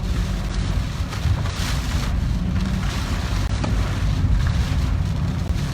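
A car driving through heavy typhoon rain: a steady low rumble of the car and road, with a hiss of rain and spray over it that swells and fades a few times.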